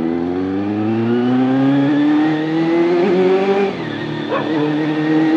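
Honda CBR400RR's inline-four engine pulling hard under acceleration, its pitch rising steadily for about three and a half seconds, then dropping sharply at a gear change and holding steady.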